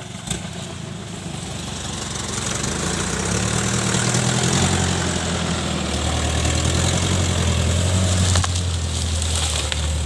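Daihatsu Taft Hiline pickup's diesel engine running under load, growing louder about two to three seconds in and then holding a steady drone.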